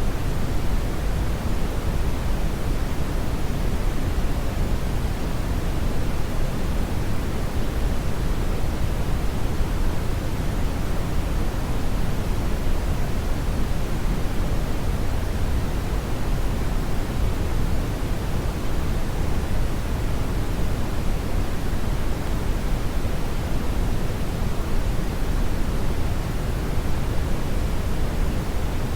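Steady brown noise: a continuous, even rumbling hiss weighted heavily toward the low end, with no changes or events.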